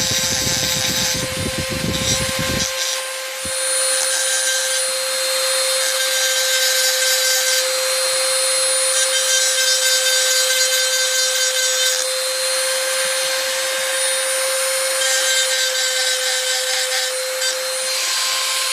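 Handheld rotary tool running at a steady high whine, its cutting bit grinding into a die-cast toy car body, with the rasping of the cut coming and going as the piece is worked. A low rumble joins it for the first few seconds.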